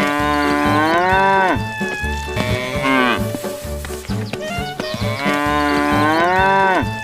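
Cow mooing twice: two long calls, each sliding down in pitch at the end, over background music with a repeating low beat.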